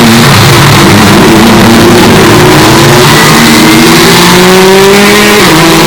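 Hyundai Elantra N's turbocharged 2.0-litre four-cylinder engine accelerating. Its note rises steadily for about four seconds, then drops abruptly near the end at a gear change. The recording is overdriven and clipped.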